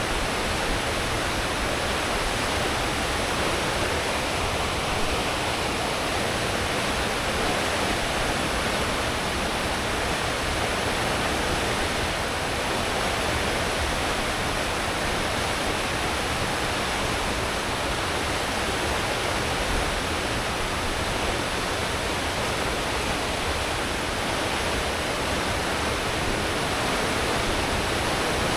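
Steady rushing churn of a cruise ship's wake, the propeller wash foaming behind the stern at full speed, with a low rumble underneath.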